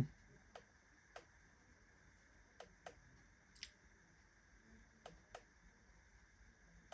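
Faint clicks of the flashlight button on an AstroAI MF159 jump starter being pressed about seven times at irregular intervals, cycling through its light modes, over a faint steady hiss.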